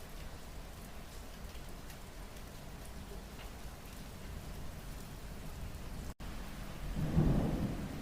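Steady rain falling, an even hiss of drops. The sound cuts out for an instant about six seconds in, and near the end a brief low rumble rises over the rain.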